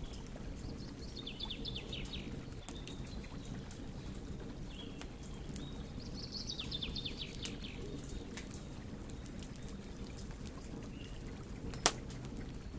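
Wood fire burning with a steady low noise and scattered small crackles, and one sharp pop near the end. A bird sings two short, quick trills in the background.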